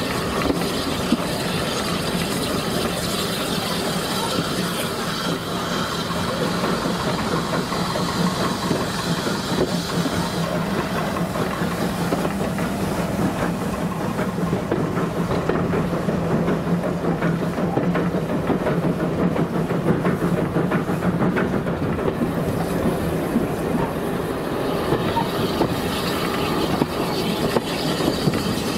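Train running along the line, heard from a coach window: continuous wheel and track noise with frequent small clicks, over a low steady drone.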